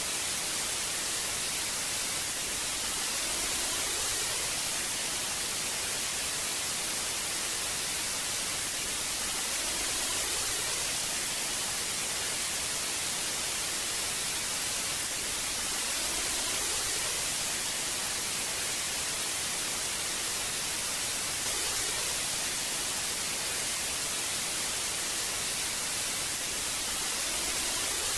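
Old analog TV static: a steady hiss, brightest in the treble, swelling slightly about every six seconds.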